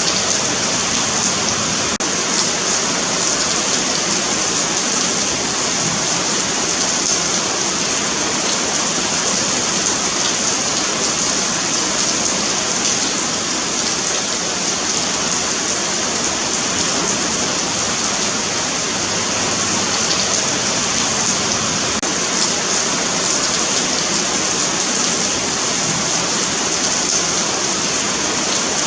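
Steady rain falling on a paved sidewalk, a continuous even patter.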